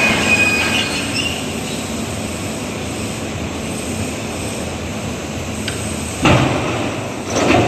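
Yulong T-Rex wood chipper running with a steady loud machine noise, with two louder sudden bursts, about six seconds in and again near the end.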